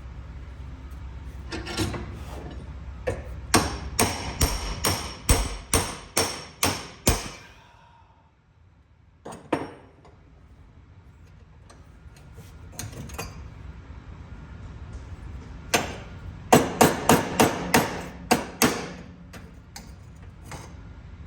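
Hammer blows on a metal exhaust part, straightening it. There is a run of blows about two a second, then a pause and a single blow, then a quicker run of about eight blows.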